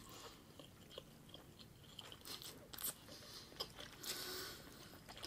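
Faint close-miked chewing of sushi: soft wet mouth sounds and small clicks, with a brief hiss about four seconds in.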